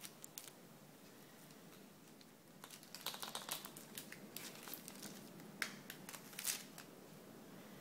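Faint handling noises at a workbench: light clicks and crinkling rustles in scattered clusters, starting about two and a half seconds in.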